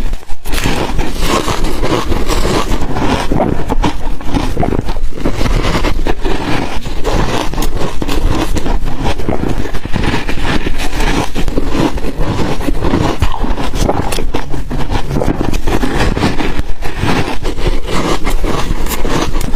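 Close-miked crunching of ice being bitten and chewed: a dense, continuous run of loud cracks and crunches.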